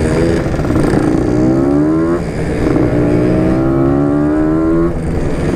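Yamaha RX King's single-cylinder two-stroke engine accelerating through the gears: the pitch rises, drops at a gear change about two seconds in, and rises again until shortly before the end.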